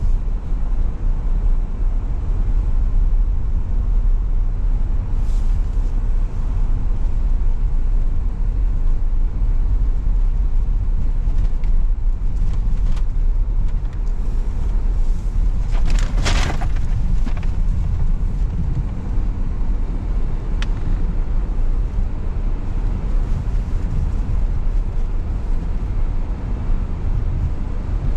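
A car driving, with a steady low rumble of engine and road noise. A short burst of crackling clicks comes about halfway through.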